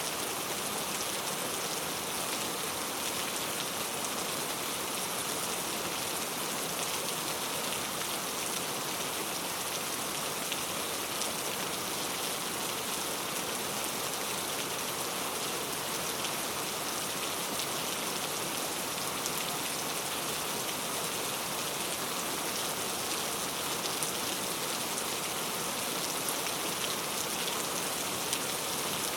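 Steady rain falling on a surface, an even hiss of many drops with fine individual drop ticks.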